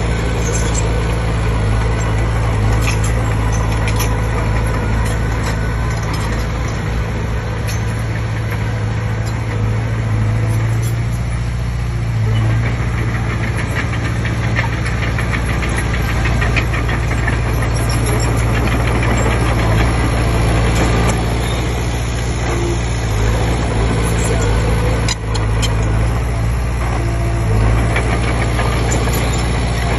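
Komatsu D20P bulldozer's diesel engine running steadily under work, a constant low drone with fine rapid clattering over it and a brief dip about 25 seconds in.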